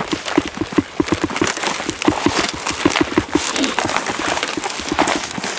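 Footsteps of several people walking through grass and brush: a quick, steady run of soft thuds with rustling of vegetation.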